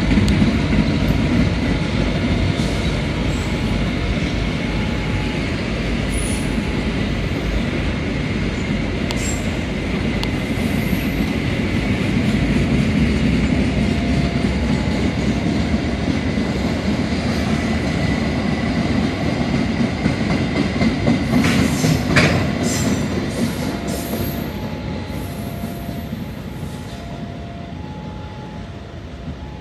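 Freight train of fuel tank wagons rolling past close by: a steady rumble of wheels over the rail joints, with a cluster of sharp metallic clanks about three-quarters of the way through. The rumble fades over the last several seconds as the train moves away.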